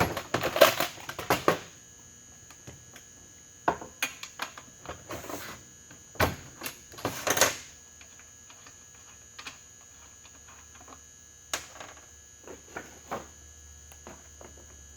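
Scattered clicks and knocks over a steady high-pitched whine; a low hum comes in about ten seconds in.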